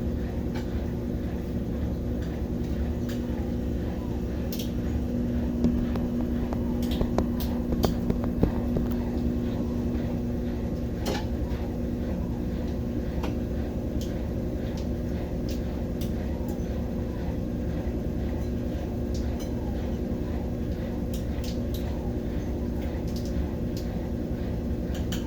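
Brastemp BWK17 17 kg washing machine in its spin cycle: a steady motor hum over a low rumble, with scattered light clicks.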